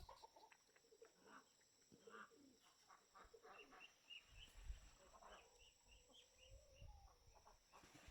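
Faint bird calls, including a run of short high peeps in the middle, over a steady high-pitched drone.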